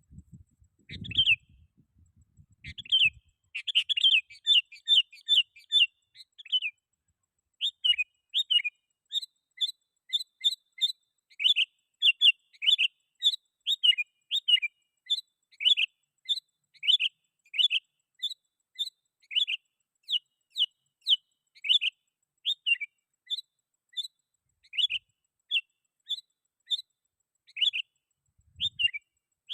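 Sooty-headed bulbul (kutilang) calling over and over in short, sharp chirpy notes, about two a second, with a quick run of notes about four seconds in. It is a lively bird calling out to rivals, the kind of call used to lure wild bulbuls.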